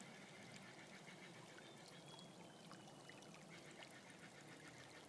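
Small snowmelt-fed freshwater creek trickling faintly and steadily.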